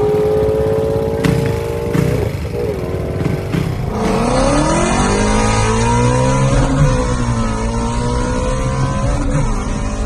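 2018 Ford Shelby GT350's naturally aspirated 5.2-litre V8, breathing through catless long-tube headers and a Corsa X-pipe exhaust, accelerating hard. Its pitch climbs, drops quickly for gear changes about two and four seconds in, then builds again and holds high before easing near the end.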